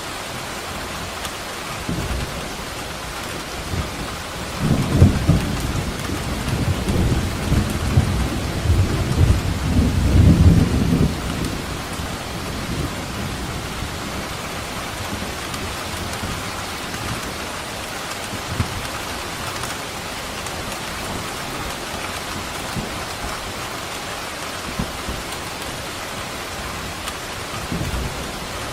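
Steady heavy rain falling, with a long roll of thunder rumbling from about five seconds in to about eleven seconds in, then fading back to the rain.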